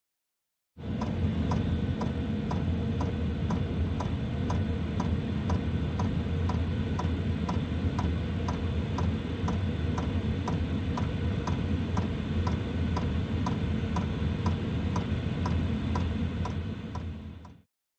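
Cheap diesel FF parking heater running: its electromagnetic fuel dosing pump ticks steadily, roughly twice a second, over the steady hum and rush of the blower fan.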